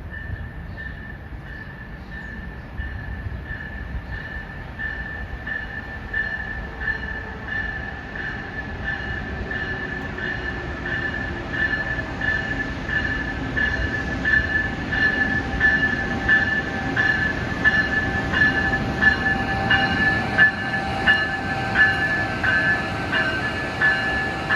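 Electric passenger train on the Northeast Corridor moving along the platform track, its wheels clicking over rail joints in a regular rhythm under a steady high whine. It grows gradually louder.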